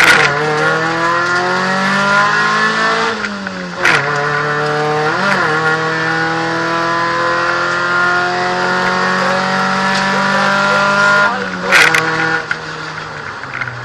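VW Golf II 16V rally car's engine, heard from inside the cabin, pulling hard through the gears: the engine note climbs steadily in each gear and drops at each shift, with a long climb in one gear from about five to eleven seconds. Sharp clicks come at a few of the shifts, and after about twelve seconds the engine drops to a lower, steadier note.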